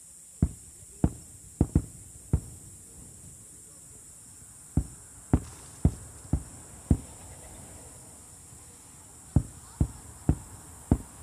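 Distant aerial firework shells bursting, sharp booms in three quick volleys of five, five and four reports, each about half a second apart.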